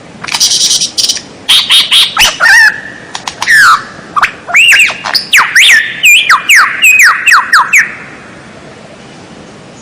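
Recorded songbird song used as a training (masteran) track. It opens with harsh, rasping scratchy notes, then moves into a quick series of clear whistles that each sweep downward in pitch, and stops about two seconds before the end.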